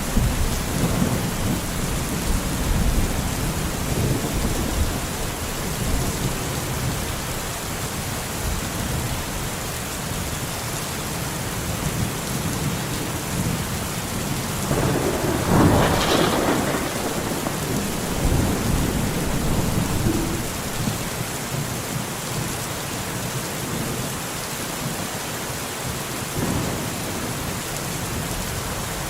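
Steady heavy rain with thunder rumbling underneath, and a louder crack of thunder about halfway through.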